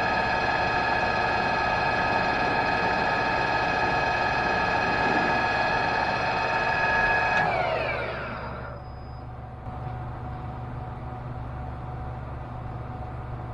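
Machine tool running with a steady whine of gears and motor, then switched off about seven and a half seconds in, its pitch falling as it spins down. A lower, quieter hum carries on afterwards.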